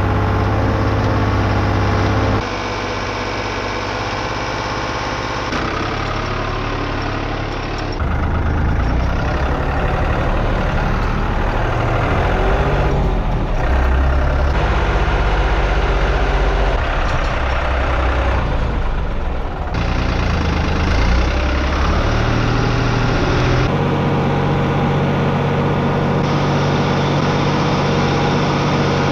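A vehicle engine running steadily, its pitch and character changing abruptly several times, every few seconds.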